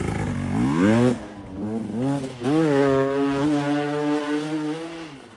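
Motocross bike engine revving up twice, then held at a steady high pitch before fading away near the end.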